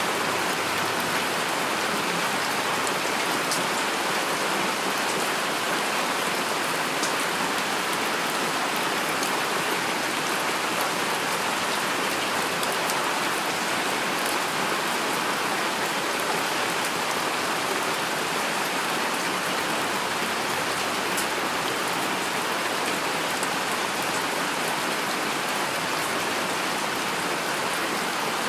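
Heavy rain falling steadily: an even hiss of drops, with faint sharper ticks of single drops here and there.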